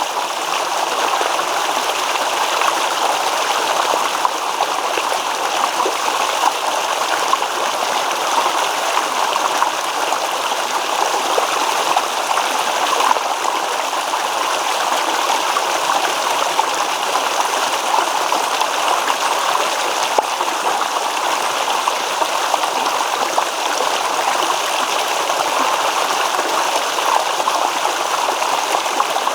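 Shallow stream babbling over stones, a steady rush of running water with fine gurgling and splashing detail.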